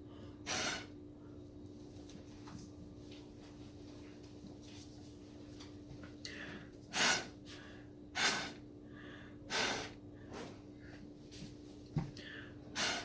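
Short puffs of breath blown through a drinking straw onto wet acrylic pour paint, pushing the paint out into fine filigrees; a handful of separate puffs, most of them in the second half.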